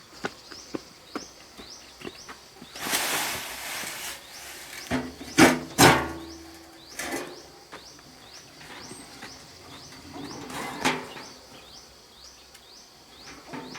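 A bird chirping over and over, a short falling call about every half second. There is a stretch of rustling about three seconds in and a few sharp knocks in the middle.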